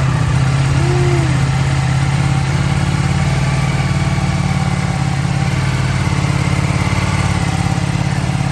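Ducati Panigale V4S's V4 engine idling steadily, loud and even, having fired up half a second before.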